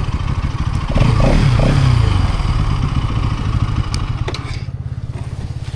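Bajaj Pulsar NS200's single-cylinder engine running at low speed, then dropping to a lower, evenly pulsing idle about four and a half seconds in, with a couple of sharp clicks just before.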